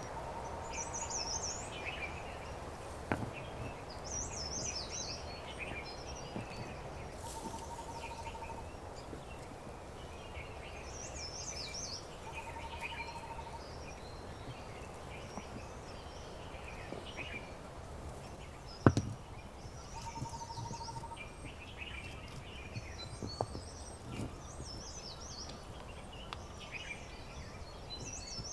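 Several wild birds singing and chirping in overlapping short high phrases, over a low outdoor background. A short, even trill on one lower note comes back about every four seconds, and a few sharp clicks or snaps stand out, the loudest about two-thirds of the way through.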